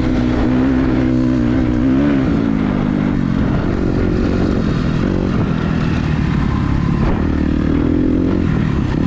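Dirt bike engine running while riding. The revs drop about two seconds in and climb again near the end.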